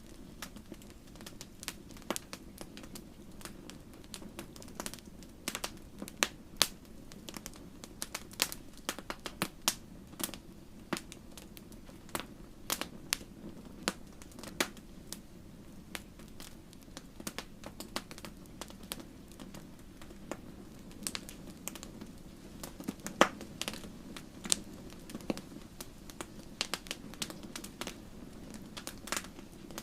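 Wood fire crackling: irregular sharp pops and snaps, several a second, over a steady low rush of flames.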